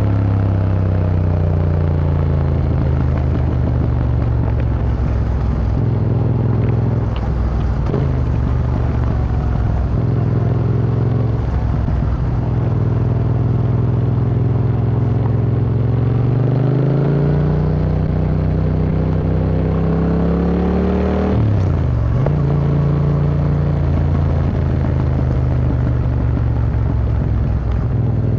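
Yamaha MT-07's parallel-twin engine through an Akrapovic Racing Line exhaust, ridden with the revs repeatedly falling and rising; a long climb in revs ends in a sudden drop a little over 21 seconds in, as at a gear change.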